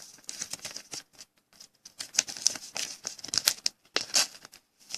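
Trading cards being handled: quick, irregular rustling and light clicks of card stock and packaging.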